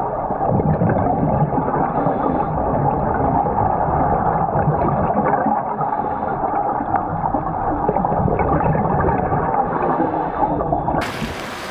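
Muffled underwater gurgling and bubbling of water, as heard by a camera under the surface.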